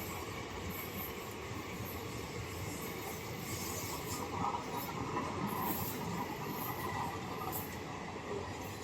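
Express train's coaches rolling past on the track: a steady rumble of wheels on rails that swells a little about halfway through.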